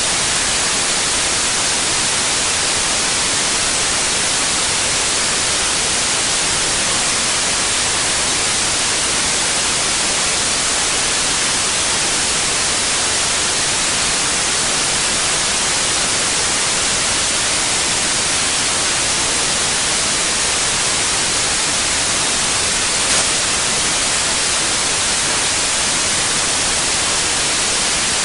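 Continuous white noise: a steady, even hiss, brightest in the upper range, with one faint tick late on.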